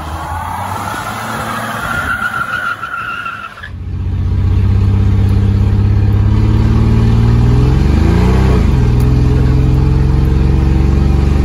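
A high tire-squeal-like screech for the first few seconds, then a sudden cut to a loud vehicle engine running hard at steady high revs, its pitch dipping briefly and climbing back about eight seconds in.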